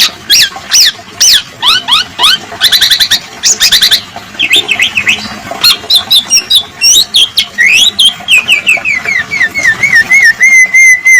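Male black-naped oriole singing a fast, varied song of sharp chirps, quick repeated trills and rising and falling whistles, ending in a long wavering whistle near the end.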